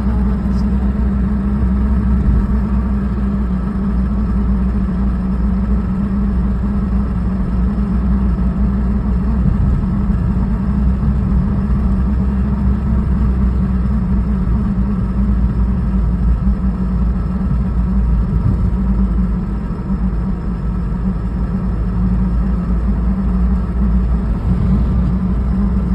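1996 Toyota Starlet driving along, a steady drone carrying a weird rattly, static-like grinding noise that comes only at speed. The owner wonders whether it is a gear problem.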